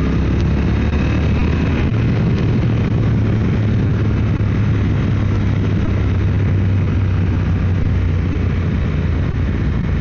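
Motorcycle engine running at a steady cruising speed, with a steady rush of wind noise.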